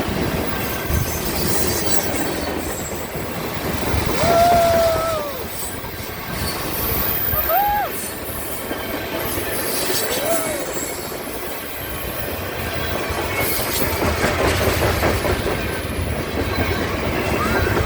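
Train cars rolling past on the rails, with wheel squeal that rises and falls in short arcs several times.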